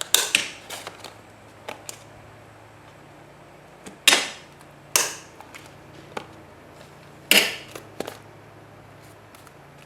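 A hand-held paper hole punch punching holes through journal pages: several sharp clacks spread a second or more apart.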